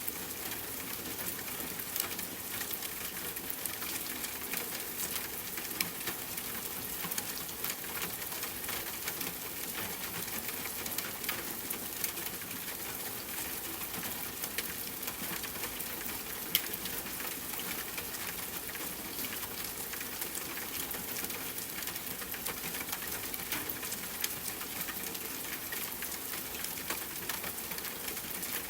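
Steady rain falling, mixed with a crackling campfire: an even hiss of rain with many small sharp pops and ticks, a few of them louder.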